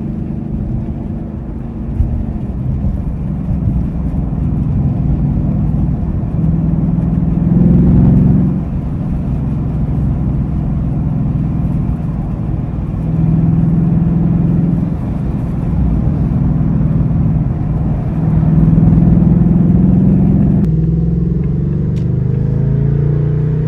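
A Ford Mustang GT's 5.0-litre Coyote V8 and exhaust running steadily under way. The engine note swells louder under throttle three times, about 8, 14 and 19 seconds in.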